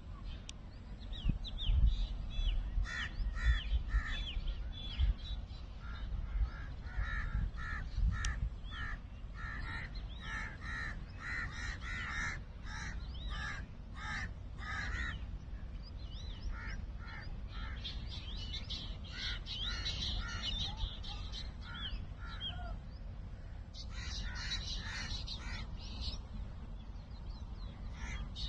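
A flock of birds calling: a busy stream of short repeated calls, joined by clusters of higher chirping in the second half. A low rumble and a few thumps come through in the first several seconds.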